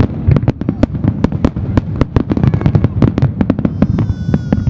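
Fireworks finale: a rapid barrage of shell bursts, many sharp bangs a second with no break. A high whistle-like tone joins near the end.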